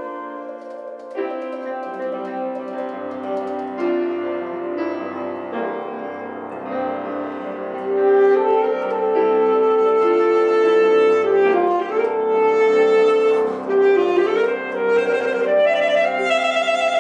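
Saxophone playing a melody of long held notes over piano accompaniment, the music growing louder about eight seconds in.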